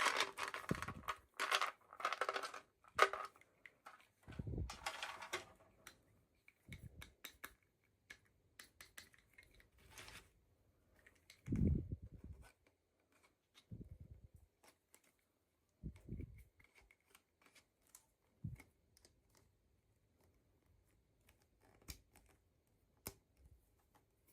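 Hands unboxing miniature toys: plastic packaging rustling and crinkling in the first few seconds, then scattered light clicks, taps and a few soft thumps as small pieces are handled.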